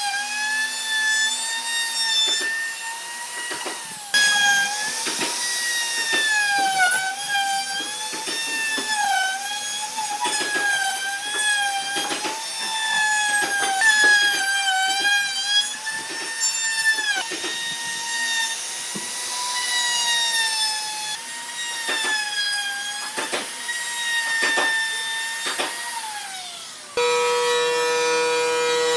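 Electric power tool working wood: a motor whine that sags and recovers again and again as it bites, with scraping strokes. About two seconds before the end it gives way abruptly to a steadier, lower machine hum.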